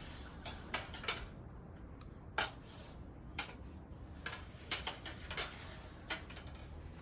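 Light metallic clicks and clinks, about a dozen at irregular intervals, over a steady low background hiss.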